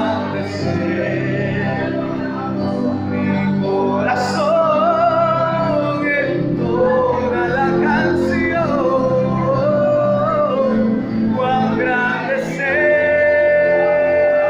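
Worship song: a voice sings with a wavering vibrato over steady low accompaniment and holds one long note near the end.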